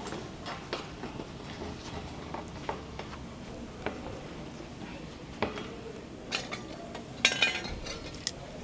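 Light knocks and clicks of plastic plumbing pipes and fittings being handled, with a louder brief clatter about seven seconds in.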